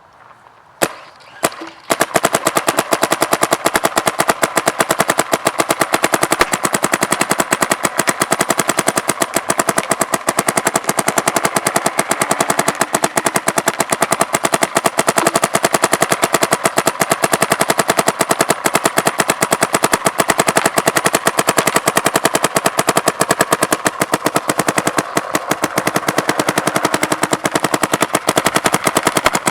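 Bob Long spool-engine paintball marker firing: two single shots about a second in, then a long, steady string of rapid shots in PSP ramping mode capped at 12.5 balls per second.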